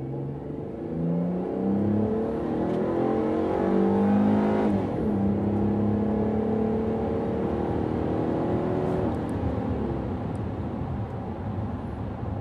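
Dodge Challenger accelerating hard, its engine note climbing steadily in pitch, dropping at an upshift about four and a half seconds in, then climbing again.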